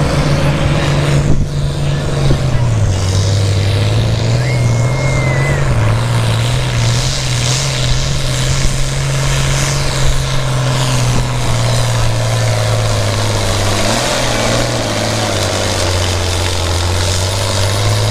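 International Harvester 966 tractor's diesel engine working hard under load as it pulls the sled, its note dropping about three seconds in and holding steady after that.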